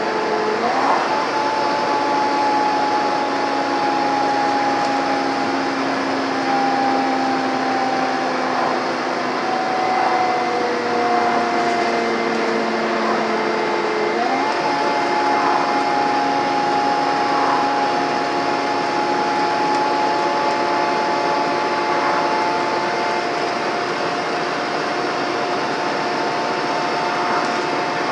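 Scania N230UD double-decker bus diesel engine under heavy load uphill, giving the steady vacuum-cleaner-like whine and thrash known as the 'Hoover' sound. The pitch sags slowly, then steps up abruptly about a second in and again about halfway through, as the gearbox changes down.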